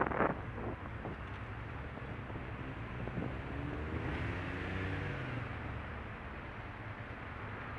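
Road traffic: a steady rumble of vehicle noise, with a short sharp knock right at the start. About three seconds in, a vehicle's engine note rises, then falls away again by about five and a half seconds.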